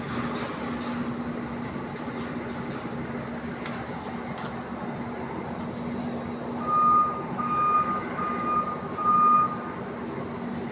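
A steady mechanical drone with a constant low hum, and about two-thirds of the way through, four evenly spaced high electronic beeps, each about half a second long.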